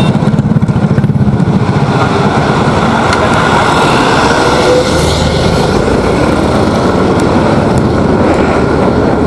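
Motorcycle running along the road, its engine under a heavy rush of wind on the microphone, steady throughout.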